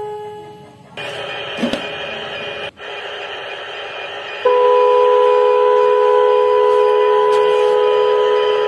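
A steady hiss comes in about a second in. About four and a half seconds in, a loud, steady, horn-like tone starts and holds without a break.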